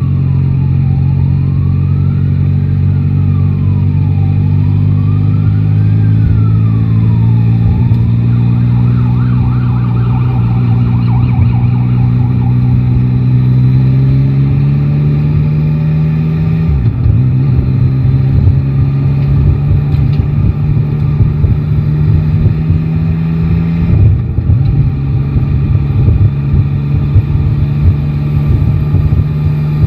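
Yamaha Tracer 9 GT's inline three-cylinder engine running in city traffic, holding a steady pitch, rising under throttle partway through, with two brief drops as the throttle closes. Over it an emergency-vehicle siren wails slowly up and down, then switches to a faster warble and fades out about twelve seconds in.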